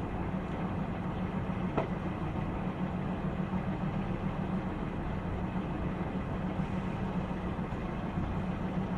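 Boat engine idling steadily with a low, even hum, and one light knock about two seconds in.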